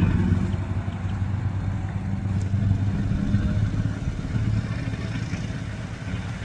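A motor vehicle's engine running steadily at low revs.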